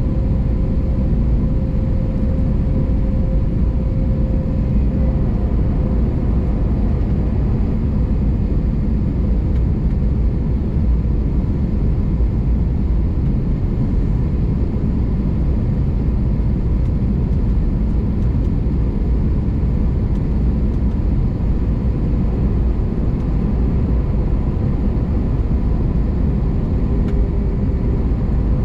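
Airbus A321neo on approach, heard from inside the cabin: a steady, loud rumble of engines and airflow, with a faint steady hum that fades out about five seconds in.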